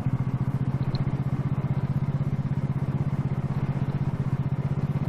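SSR Razkull 125 pit bike's single-cylinder engine running steadily with a fast, even pulse, pretty loud.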